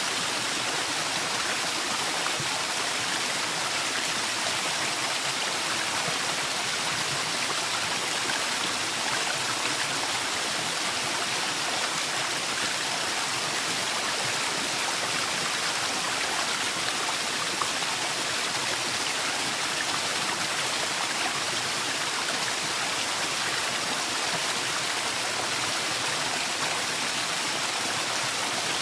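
Forest waterfall: a steady, even rush of falling water with no breaks or changes.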